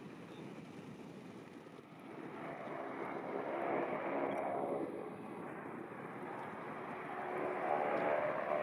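Aircraft engine noise from a passing airliner, swelling about two seconds in and growing again near the end.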